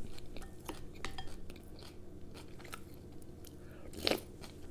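A person chewing and eating food close to the microphone, with many small wet mouth clicks and a brief louder crunch about four seconds in.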